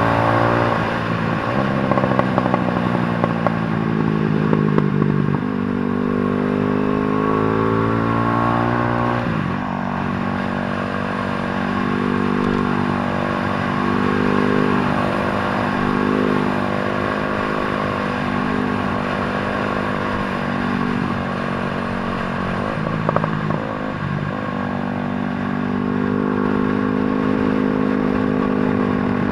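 A 150 cc motorcycle engine being ridden hard. Its pitch climbs and drops suddenly at gear changes, and through the middle it revs up and down quickly about once a second as the throttle is worked.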